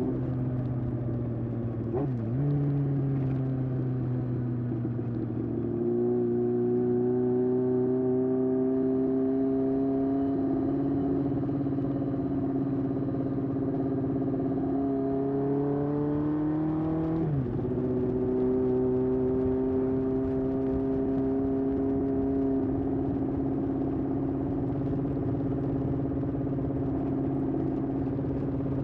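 1981 Honda CB750F's air-cooled inline-four running through a period Yoshimura exhaust while riding, its note climbing slowly as it pulls. A quick gear change about two seconds in and another, with a sharp drop in pitch, about seventeen seconds in.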